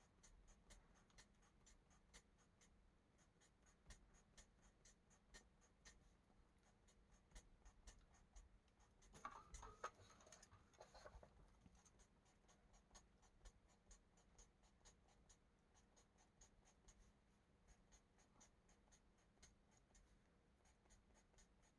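Faint, quick scratching of a marker tip on paper as small X's are drawn into coloring-book spaces. The short strokes come at about three a second, a little louder for a moment around nine seconds in.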